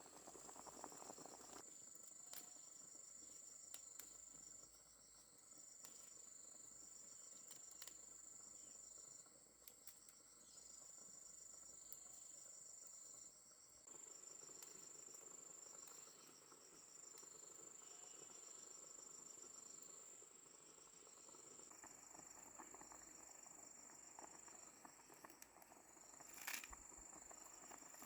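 Crickets or other night insects trilling faintly: one high, steady trill that breaks off briefly every few seconds, over a second, lower, pulsing chirp. A sharp click comes near the end.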